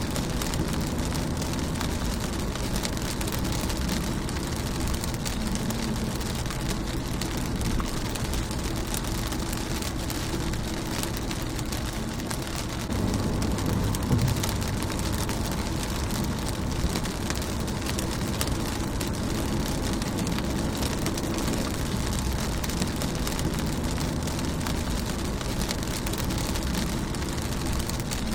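Rain falling on a car's windscreen and body: a dense, steady patter of drops over a low rumble, growing briefly louder about halfway through.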